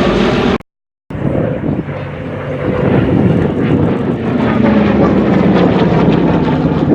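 Aircraft engine drone of a plane flying over, loud and steady, broken by a complete gap of about half a second shortly after the start, a cut in the recording, before it resumes.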